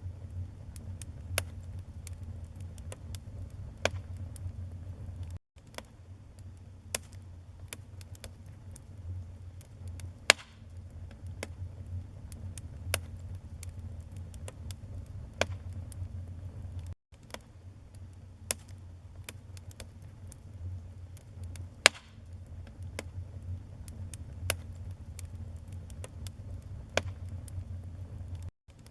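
Wood fire in a fireplace crackling: irregular sharp pops and snaps of varying loudness over a low steady rumble. The sound cuts out for an instant three times.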